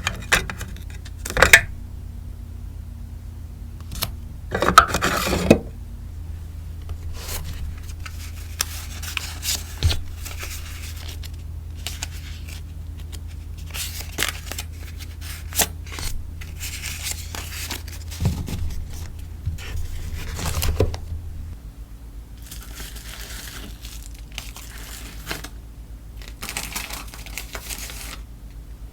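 Hands packing sticker orders: rustling and crinkling plastic and paper packaging, with tearing and small scrapes and taps coming in scattered bursts. The loudest rustles come about a second and a half in, around five seconds in, and again near twenty-one seconds.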